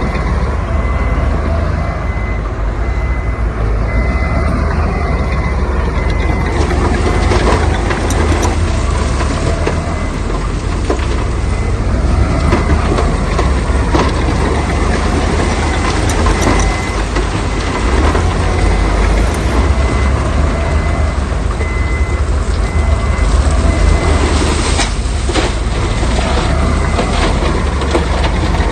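Heavy construction machinery running with a deep engine rumble and scattered clanks. A reversing alarm beeps steadily over it and stops near the end.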